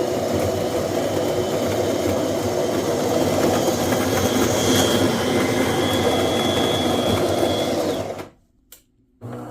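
DeLonghi Magnifica XS espresso machine's built-in burr grinder running steadily as it grinds beans for a double espresso, then cutting off. A brief click follows, and near the end a quieter, even machine hum starts as the brewing cycle begins.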